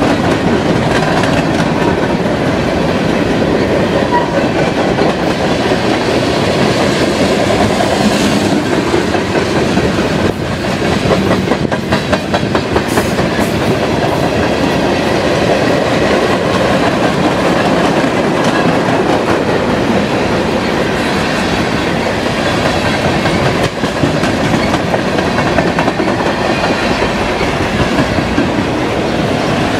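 Freight cars of a long mixed freight train (covered hoppers, tank cars, autoracks) rolling past close by. The steel wheels make a steady rumble and clatter with clickety-clack over the rail joints, and a quick run of sharp clacks comes about eleven seconds in.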